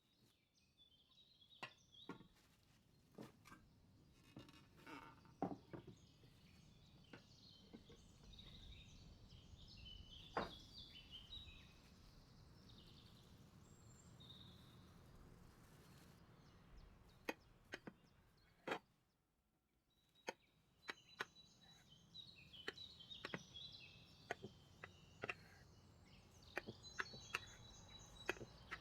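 Near silence broken by scattered light clicks and taps, with faint high chirps in the background.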